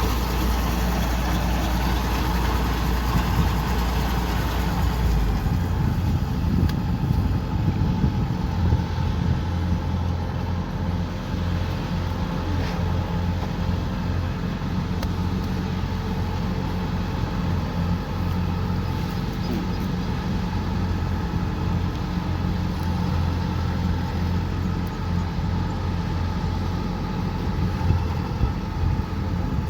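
Kubota combine harvester's diesel engine running steadily, with a change in its low note about five seconds in.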